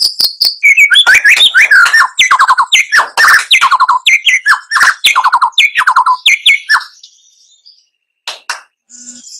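White-rumped shama (murai batu) singing a fast, loud, varied song of sharp clicks and quick falling whistled notes, which stops about seven seconds in; a few brief clicks follow near the end.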